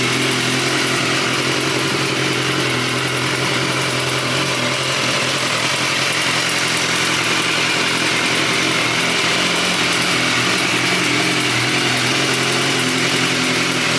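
BMW S1000R's inline-four engine idling steadily.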